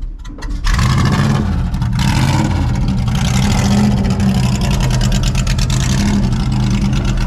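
Car engine running loud and steady, just after being started. The sound drops briefly in the first half second, then holds a constant level.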